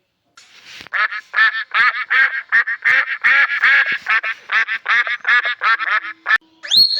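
Ducks quacking: a rapid, continuous run of short, nasal quacks, several a second.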